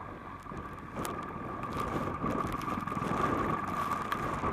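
Helicopter running: a steady high turbine whine over rumbling rotor and wind noise, getting a little louder about a second in.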